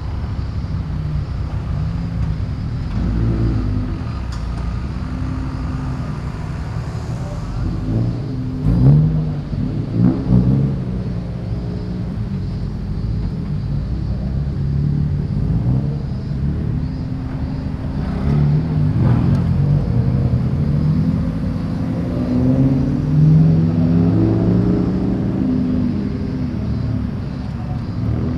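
Car engines running as cars roll out one after another, a steady low rumble with short revs rising and falling about a third of the way in and a longer stretch of revving past the middle.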